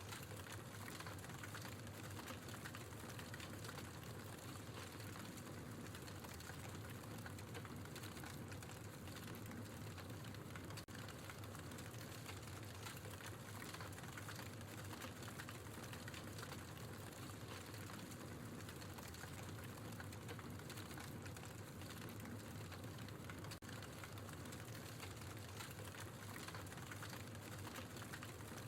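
Wood fire burning in a fireplace: a steady patter of small irregular crackles and snaps over a low hiss.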